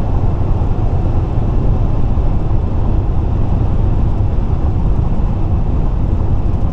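Car travelling at highway speed: a steady low rumble of tyres and engine.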